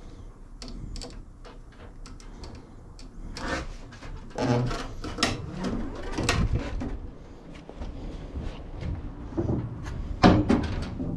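Irregular clicks, knocks and scrapes of hand tools and metal and plastic parts being handled while working on a walk-behind mower's self-propel drive, with one louder knock near the end.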